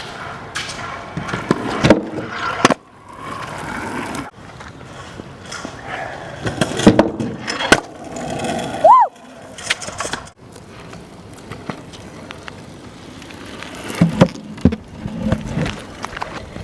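Skateboard rolling, with several sharp clacks and landings of the board and a brief squeak about halfway through.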